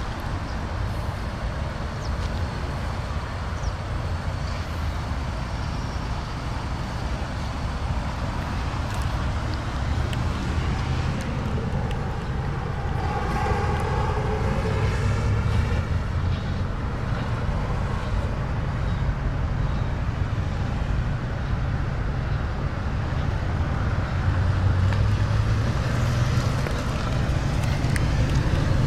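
Steady low vehicle rumble, with a vehicle passing about midway, its sound sweeping up and back down in pitch.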